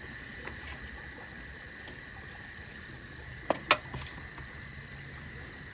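Crickets chirring steadily in a high, even tone, with two sharp clicks about three and a half seconds in.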